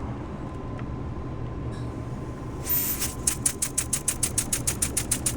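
A small single-acting, single-cylinder oscillating model steam engine starting up. A short hiss comes as it is given steam about halfway through, then it settles into fast, even exhaust puffs, about seven to eight a second, over a low steady hum.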